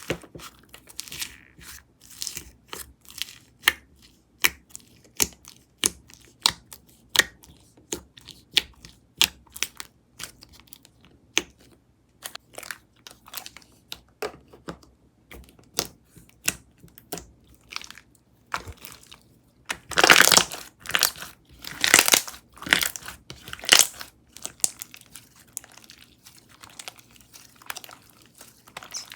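Lucky Charms cereal slime being squished and pressed by hand, giving a quick run of sharp clicking pops and crunches, with louder, longer crunching bursts about two-thirds of the way through.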